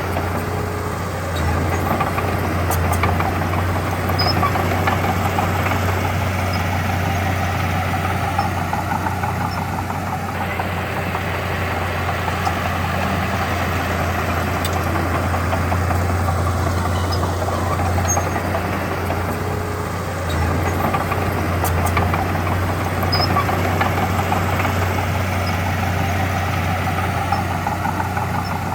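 Heavy diesel engine of earthmoving machinery running continuously, its level swelling and easing every several seconds as it works under changing load.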